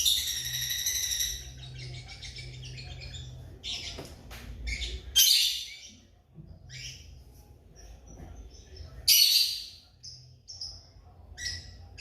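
African lovebirds calling with shrill, separate chirps, the loudest about five and nine seconds in. At the start a rapid buzzy trill fades out within the first second or so.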